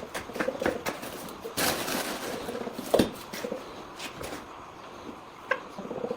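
Irregular clatter of short knocks and clicks, with a sharper knock about three seconds in.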